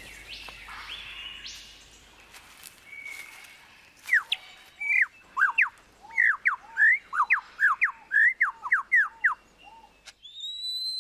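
Superb lyrebird singing: a rapid run of loud, clear whistled notes sweeping up and down, a few a second, starting about four seconds in, after fainter forest bird calls. Near the end comes a rising whistle.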